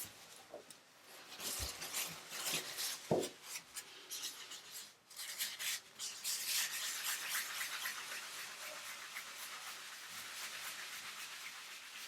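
Polish being rubbed by hand onto the sanded repair spot of a bathtub chip, the final polishing step. The rapid back-and-forth rubbing strokes are uneven at first, with a couple of soft knocks, then settle into a steady fast rhythm about halfway through.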